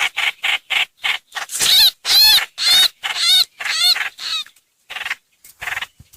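Lure recording of the songbird called trao trảo or hoành hoạch in Vietnamese: a rapid string of loud, harsh, chattering call notes, several a second. The calls pause for about a second about two-thirds of the way through, then a few more notes follow.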